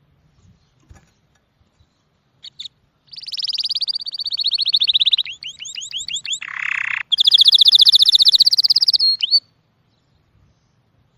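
A small songbird singing one long song of fast trills, with a run of sweeping notes and a short harsh buzz in the middle. The song starts about two and a half seconds in and stops abruptly near the end.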